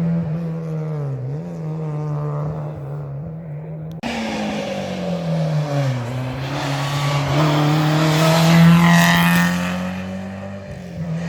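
Historic rally car engines at full stage pace: the engine note drops and climbs again with gear changes. The sound cuts abruptly about four seconds in to another car, which approaches, is loudest near nine seconds, and passes.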